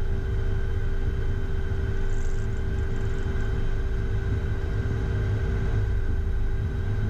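Steady low rumble with a few steady whining tones, heard inside the cockpit of a Beechcraft Premier I business jet with its turbofan engines idling on the ground.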